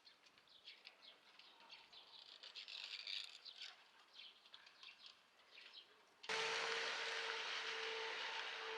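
Faint birds chirping. About six seconds in, this cuts off abruptly into a louder, steady hiss with a low hum running through it.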